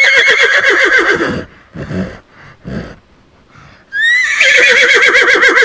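Horse whinnying twice. Each call rises sharply, quavers and falls away, with two short breaths in the gap between them.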